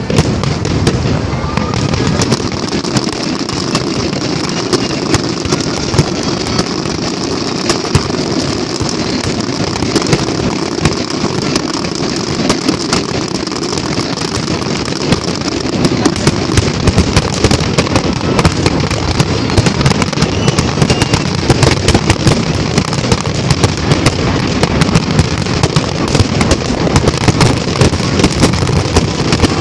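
Aerial fireworks shells bursting in a continuous barrage of bangs, the sharp reports coming thicker and louder from about halfway through.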